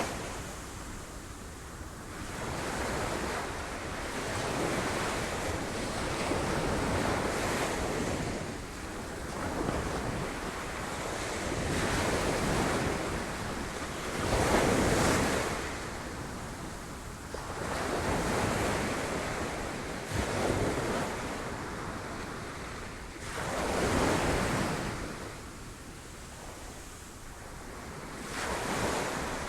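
Sea waves crashing against rocks in repeated surges that swell and fall back every few seconds, the biggest surge about halfway through.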